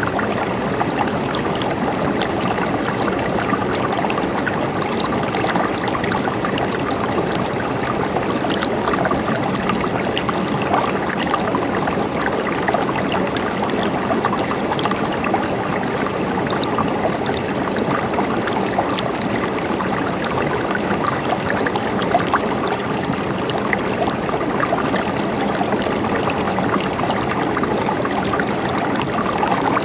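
Steady flowing water: a stream running over rocks, with a dense fine splashing and trickling that stays even throughout.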